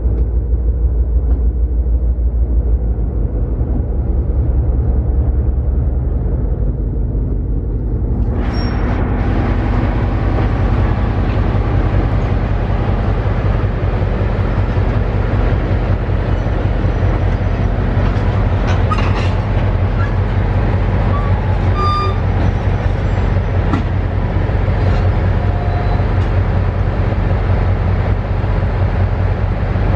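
Train running, a loud steady rumble. About eight seconds in it turns brighter and harsher, and short high squeals sound now and then through the middle.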